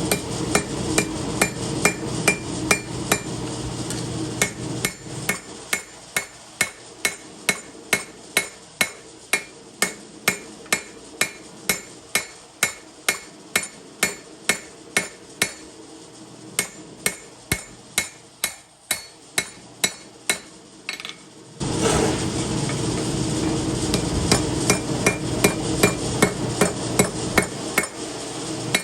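Hammer striking steel on an anvil while forging a knife blade: even, ringing blows at about two a second. A steady rushing background noise sits under the blows at the start and comes back suddenly about two-thirds of the way in.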